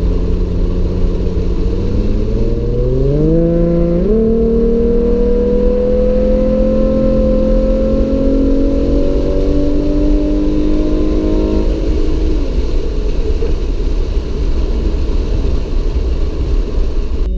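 Car engine accelerating: its pitch climbs quickly about two and a half seconds in, then keeps rising slowly for several seconds before easing off about twelve seconds in, over a steady low road rumble.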